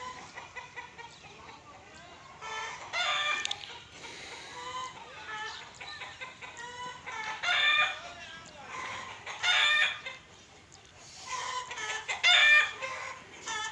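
Chickens clucking, with four loud calls, including rooster crowing, about three seconds apart.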